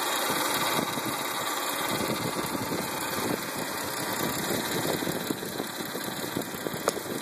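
2009 Hyundai Santa Fe engine idling with a rapid, irregular ticking clatter over its steady running: the strange engine noise that the owner is recording, its cause unknown. A single sharper click comes near the end.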